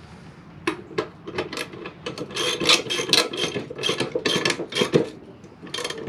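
Rough scraping strokes worked back and forth in an irregular rhythm, starting under a second in.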